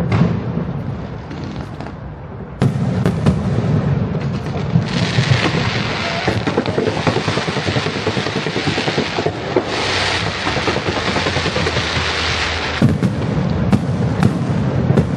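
A fireworks display going off without a break, with many sharp bangs and crackles. A louder barrage starts suddenly a few seconds in, and a dense crackling hiss of crackle shells fills the middle before dropping back near the end.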